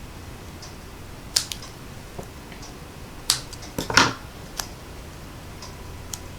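Scattered light clicks and taps, with a short rustle about four seconds in, from hands handling cardstock and small adhesive dimensionals on a craft table, over a faint low hum.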